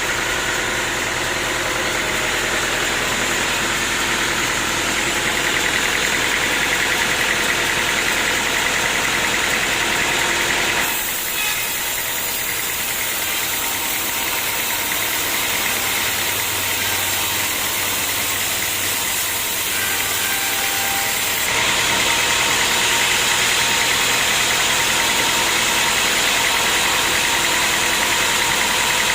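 Sawmill machinery running steadily, a motor with a constant whine and hum. The sound changes abruptly about eleven seconds in and back again about ten seconds later.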